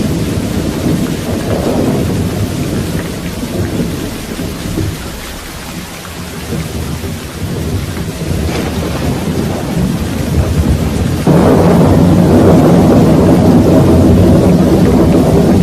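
Steady rain with rolling thunder. The rumble eases off in the middle, then a loud new roll of thunder breaks in suddenly about eleven seconds in and keeps rumbling.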